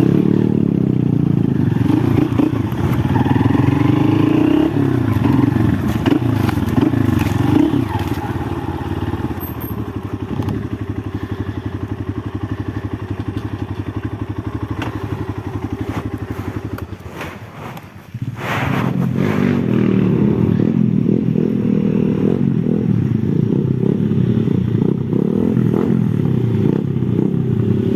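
Honda XR 190 enduro motorcycle's single-cylinder four-stroke engine running. It fades lower from about eight seconds in, almost dies away around seventeen seconds, then comes back loud a second later and runs steadily again.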